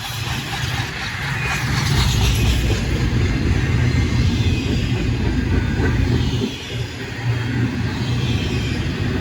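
Freight train passing, a loud steady low rumble that dips briefly about six and a half seconds in.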